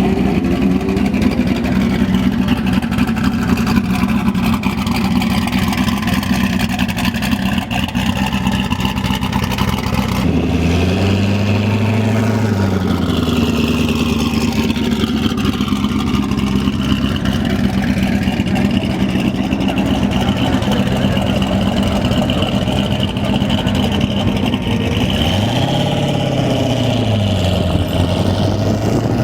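A car engine idling steadily, revved briefly twice: once about a third of the way in and again near the end, each time rising and settling back to idle.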